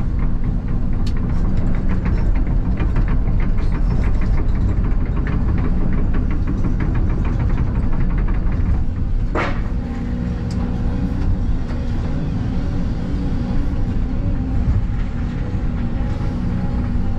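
Excavator engine running under load with its hydraulics working, a fast rattle of knocks through the first half. About nine seconds in a brief rising whine, then a steadier run.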